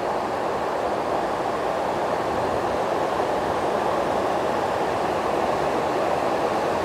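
Heavy, continuous rain on the roof of a large industrial shed, heard from inside as a steady, even rush.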